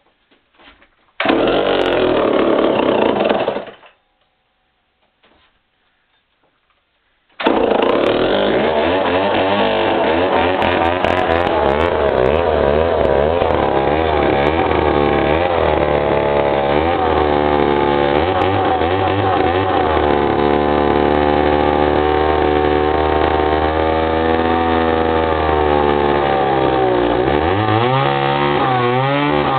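Remington SL7 95cc two-stroke chainsaw pull-started: it runs for a couple of seconds and dies, then starts again about seven seconds in and keeps running, its speed wavering and dipping near the end. It won't settle to an idle as the throttle drops, which the owner puts down most likely to a carburetor needing cleaning or a rebuild.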